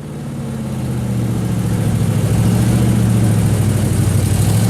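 Lamborghini Gallardo LP 560-4 Spyder's V10 engine and exhaust idling, a steady low note that grows louder over the first couple of seconds and then holds even.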